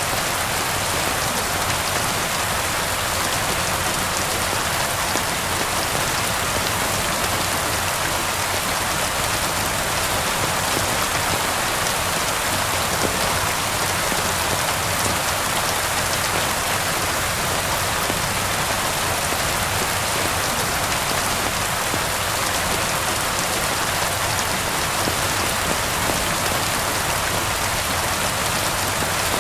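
Steady rain falling on hard surfaces, an even hiss dotted with faint drop ticks that does not rise or fall.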